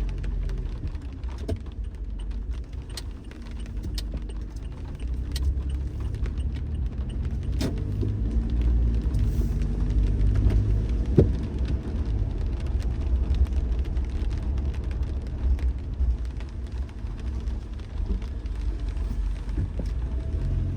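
Car driving on the road: a steady low rumble of road and engine noise, with scattered sharp ticks.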